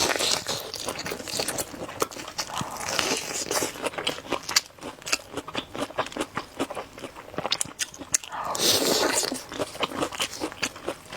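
Close-miked crunching and chewing of crispy fried chicken: many irregular crunches and bites, with a longer rustling, smacking patch near the end.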